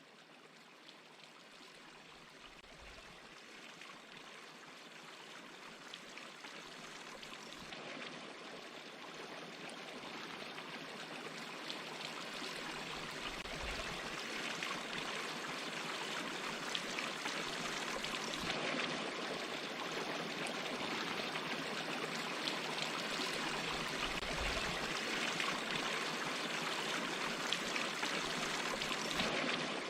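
Water rushing over a small waterfall in a stream: a steady hiss of flowing water that grows gradually louder over the first half, then holds.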